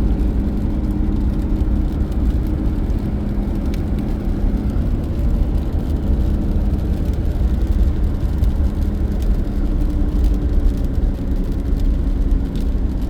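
Steady low rumble of a car driving, engine and tyre noise heard from inside the cabin, with a faint engine hum that fades about five seconds in.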